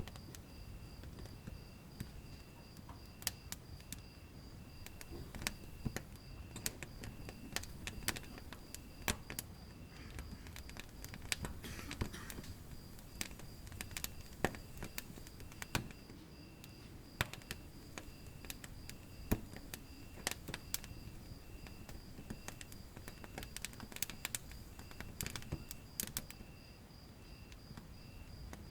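Wood fire in a fireplace crackling, with irregular sharp pops and snaps over a low rumble of the flames. A faint high chirp pulses steadily about twice a second throughout.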